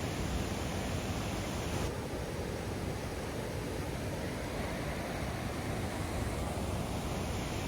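Steady rushing of a large waterfall, an even roar with no breaks; its upper hiss shifts slightly about two seconds in.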